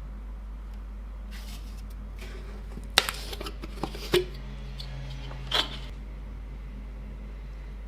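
Workbench handling noises: a sharp click about three seconds in, followed by a few lighter clicks and knocks, and a short scrape a couple of seconds later, over a steady low hum.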